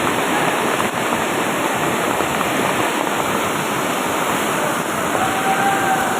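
Steady rush of flowing water, an even unbroken roar with no pauses.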